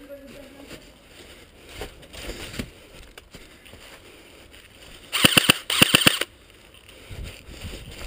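Airsoft electric rifle firing two quick full-auto bursts of rapid sharp clicks, back to back, about five seconds in.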